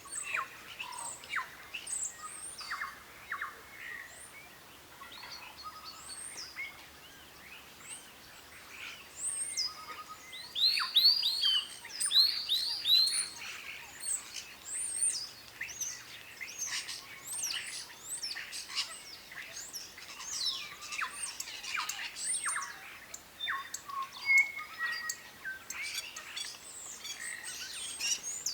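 Several birds chirping and calling together: a busy mix of short whistled notes and quick downward sweeps, with a louder run of repeated arched whistles about ten seconds in.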